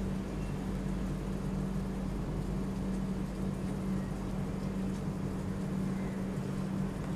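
Steady running noise of a moving passenger train, an even rumble with a constant low hum and no clear breaks or clicks.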